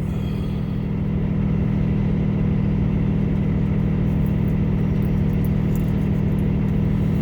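Semi truck's diesel engine idling: a steady low hum that swells slightly about a second in, then holds even.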